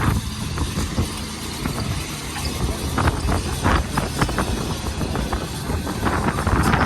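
Heavy vehicle engine running with a steady low rumble, broken by a few short knocks and rattles, with wind on the microphone.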